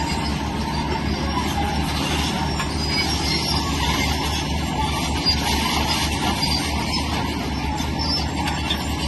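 Shantui crawler bulldozer's diesel engine running steadily under work, with metallic track noise over its low drone.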